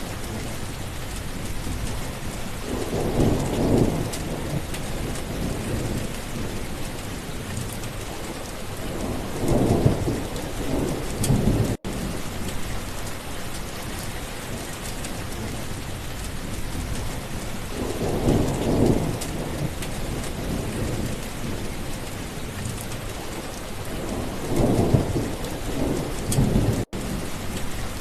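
Steady heavy rain with four low rolls of thunder spread across it, each swelling and fading over a second or two. The sound cuts out for an instant twice.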